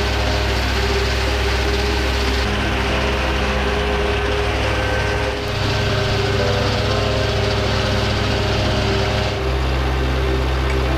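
Tractor engine running steadily, its note shifting a few times as the engine speed or load changes.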